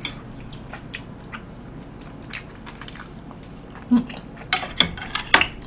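A person chewing tteokbokki rice cakes close to the microphone, with soft mouth clicks and a run of louder wet smacks and clicks near the end.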